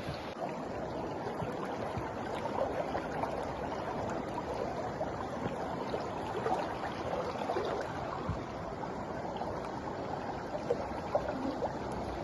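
Steady rush of flowing floodwater, with a few small splashes and knocks.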